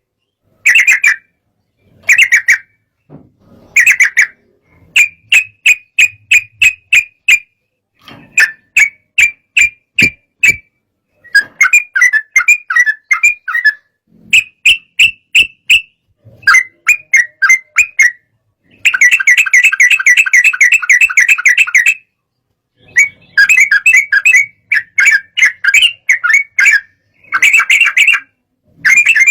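Sooty-headed bulbul singing agitated song: short bursts of rapid, chattering notes separated by brief pauses, with one longer unbroken burst a little past the middle. This is the excited, aggressive song used to set rival bulbuls singing.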